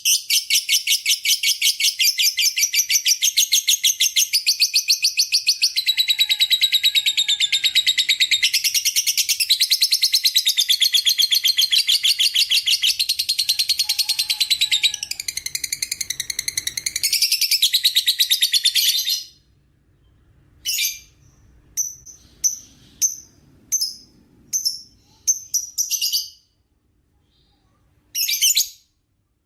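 Lovebird in a long 'ngekek' chatter: a rapid, unbroken run of high, shrill pulses with slight rises and falls in pitch. After about 19 seconds it breaks off into short separate chirps with pauses between them.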